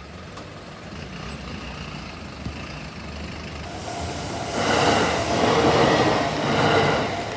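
A train passing through a level crossing. Its wheel-on-rail noise builds from about a second in to a loud rush in the second half, swelling three times, then starts to fade near the end.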